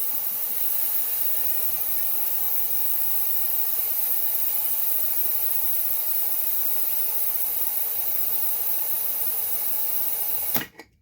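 Compressed air hissing steadily into a tubeless minibike tire and leaking past a bead that won't seal, cutting off suddenly near the end.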